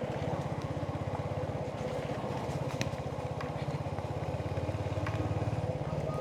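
Royal Enfield Hunter 350's single-cylinder engine running steadily while the motorcycle cruises, with a low, even beat of firing pulses.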